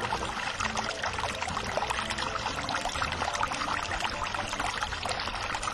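A Beaker Creatures pod fizzing as it dissolves in water: a steady, dense crackle of many tiny bubbles bursting.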